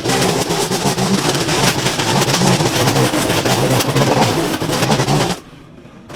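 Hedge trimmer running and cutting, its motor pitch wavering with the load; it cuts out about five seconds in and starts again just at the end.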